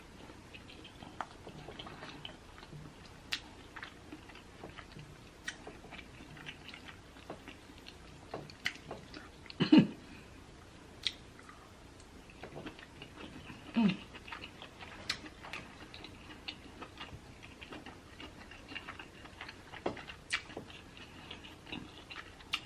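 Close-up chewing and wet mouth sounds of someone eating deshelled seafood boil: many small scattered clicks, with two louder brief sounds about ten and fourteen seconds in.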